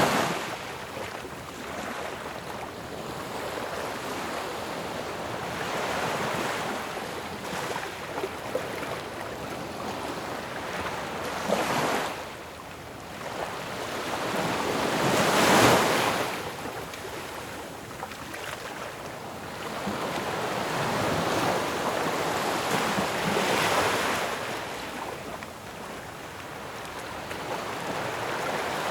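Ocean waves breaking on a shore: a continuous rushing wash that swells and recedes, with one wave crashing louder about halfway through and others about eleven and twenty-three seconds in.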